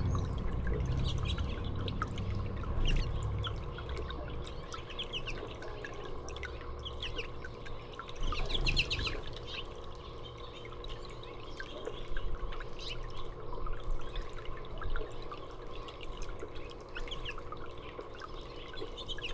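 Small songbirds chirping in quick short notes, a cluster of them about eight to nine seconds in, over steady trickling water.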